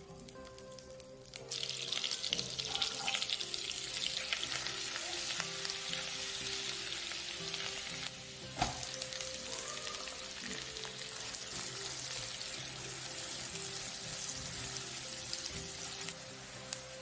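Butter sizzling and bubbling in hot oil in a frying pan, then chopped onion frying in it. The sizzling starts about a second and a half in and holds steady, with one sharp knock about halfway through.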